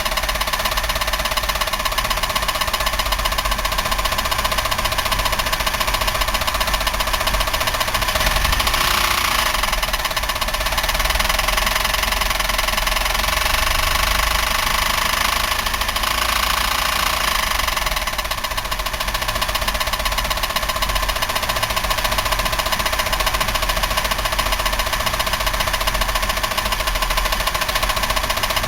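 Buick 3800 V6 running with its front valve cover off, knocking steadily and heavily. The owner suspects a rod bearing, bearings or a collapsed lifter.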